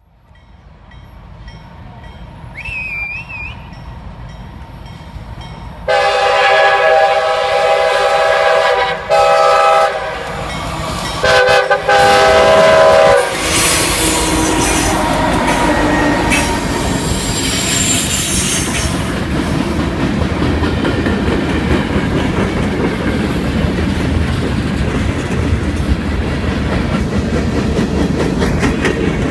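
A freight train approaches with a rising rumble. About six seconds in, the lead locomotive, a BC Rail GE C40-8M cowl unit, sounds its horn: a long blast, a shorter one, then another long one. Diesel engines and wheels then rumble and clatter steadily as the locomotives and freight cars roll past.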